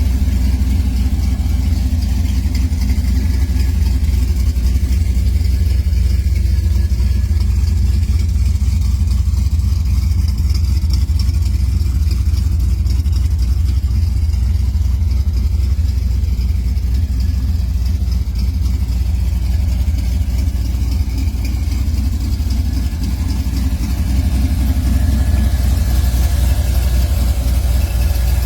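Car engine running steadily with a deep low rumble.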